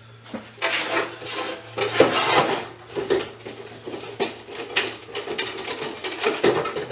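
Pieces of scrap metal clattering and scraping against each other as they are handled and sorted, in irregular knocks and rattles.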